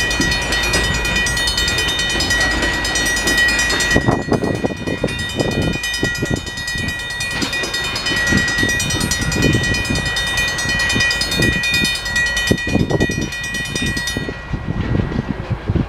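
Safetran mechanical crossing bell ringing steadily as a train rumbles and clatters over the crossing. The bell stops about fourteen seconds in, and the train noise carries on.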